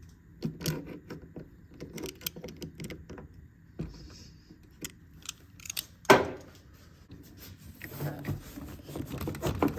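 Scattered clicks and clanks of small hard objects being handled, with one louder clank about six seconds in.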